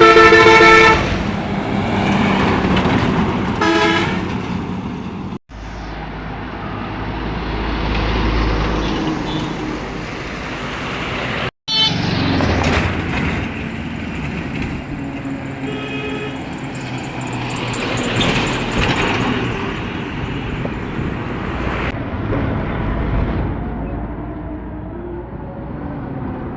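Trucks on a busy road: a loud truck horn blast in the first second, a shorter horn a few seconds later, and diesel truck engines running and passing by, with more horns sounding around the middle. The sound cuts off abruptly twice and starts again.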